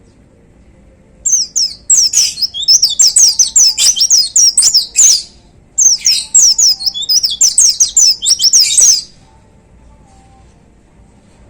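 A pleci (white-eye) singing two fast bouts of high, twittering song, the first about four seconds long and the second about three, with a short break between.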